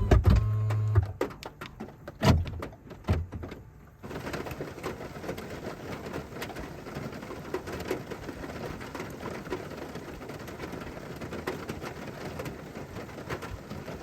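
A brief steady motor hum and a few sharp knocks, then from about four seconds in a steady patter of rain.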